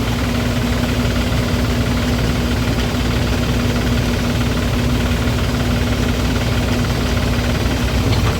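John Deere 5050D tractor's three-cylinder diesel engine running steadily at a constant speed, with a steady hum and no change in pitch.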